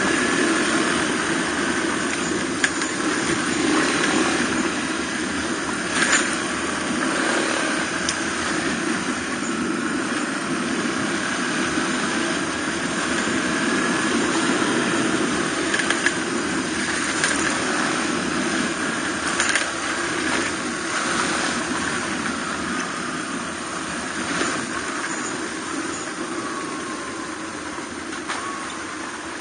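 Suzuki DR250R dirt bike's single-cylinder engine running steadily while riding, with a rushing haze of wind and road noise. A few sharp clicks or knocks come through at scattered moments.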